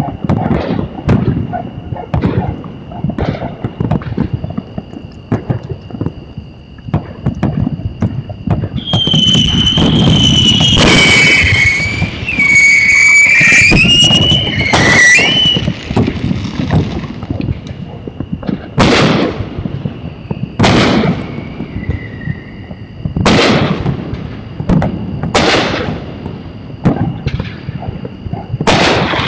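Fireworks going off: a run of pops and bangs, then a dense loud barrage from about nine to sixteen seconds in with whistling whines gliding up and down, then single loud bangs about every two seconds. A steady high tone runs underneath.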